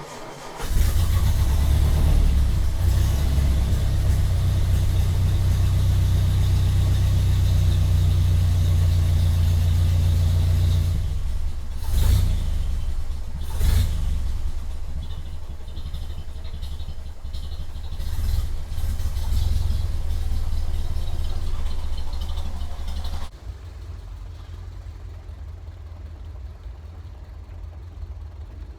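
Ford Model A four-cylinder flathead engine running steadily, starting suddenly just after the start, with two short sharp knocks about 12 and 14 seconds in. It runs on freshly installed intake and exhaust manifolds. About 23 seconds in it drops suddenly to a quieter steady level.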